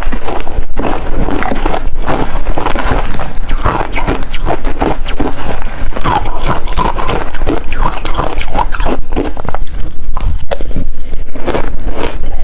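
Ice being bitten and chewed: dense, continuous crunching and crackling with no pauses.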